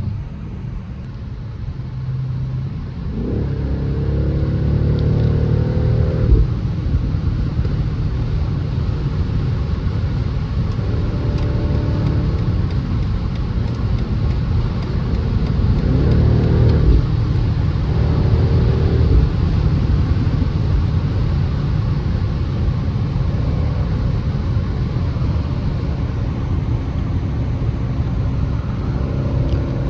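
2025 BMW X6M's 4.4-litre twin-turbo V8 accelerating hard. The engine note rises in pitch several times and drops at each upshift, over a steady low road rumble.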